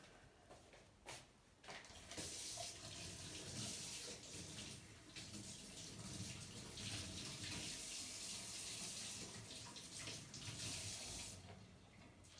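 A water tap running into a sink. The flow starts about two seconds in after a few light knocks, and it stops shortly before the end.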